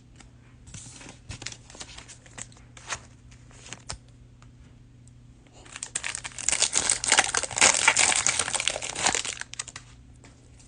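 Cellophane wrapper of a trading-card cello pack being torn open and crinkled: scattered light clicks and rustles at first, then a dense burst of crinkling for about four seconds past the middle.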